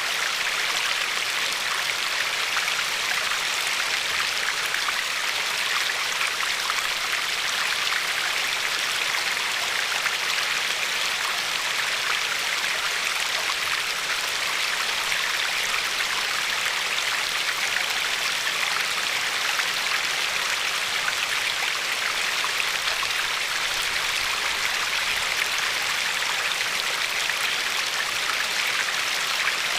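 River water flowing steadily, with fine splashing and lapping along a pebbly shore.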